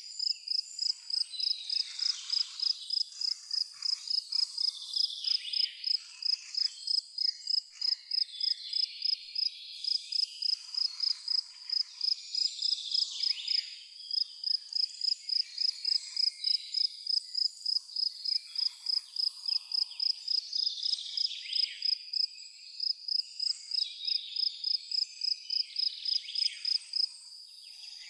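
A cricket chirping steadily at about three high chirps a second, with birds singing in the background. The chirping pauses briefly near the end.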